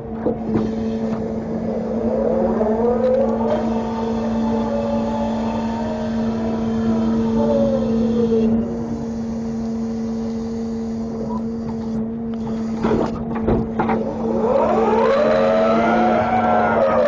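Grapple truck engine revving up and back down three times over a steady hum as the grapple is worked, with a few sharp metal clanks late on.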